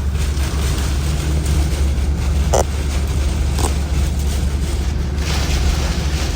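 Steady low rumble of a vehicle driving, with wind noise over it, and two short knocks about two and a half and three and a half seconds in.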